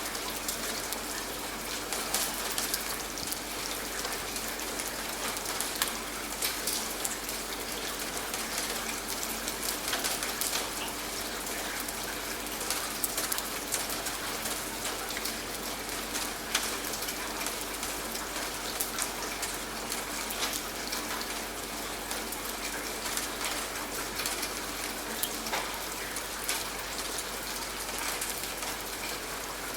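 Steady rain falling, with many separate drops striking a surface.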